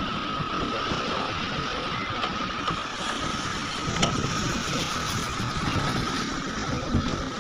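Heavy earthmoving machinery running steadily, a rumbling engine with a constant high whine over it and a single sharp click about four seconds in.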